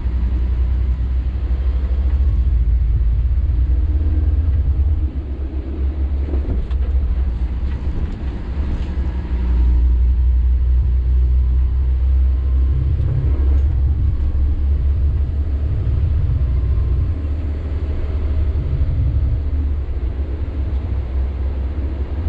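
Sany 6x4 dump truck on the move: a steady low rumble of engine and road noise, easing off about five seconds in and growing louder again near ten seconds.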